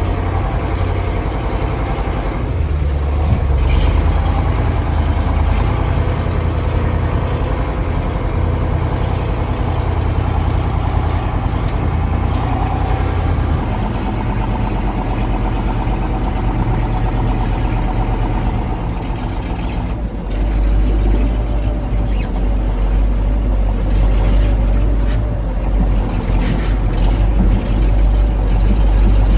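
1985 KAMAZ 4310 6x6 military truck's V8 diesel engine running steadily as the truck drives off-road. The character of the sound shifts about 13 seconds in, and the low engine note grows heavier from about 20 seconds in.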